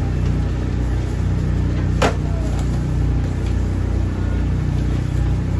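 Steady low machine hum of a food truck's running equipment, with one sharp clink about two seconds in.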